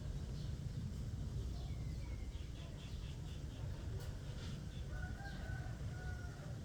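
Faint bird calls, short chirps and a few held notes, over a steady low rumble.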